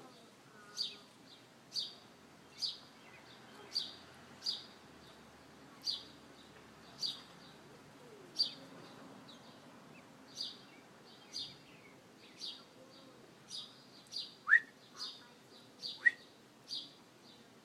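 Small bird chirping: short, high chirps repeated about once a second, with two louder, lower sharp chirps near the end.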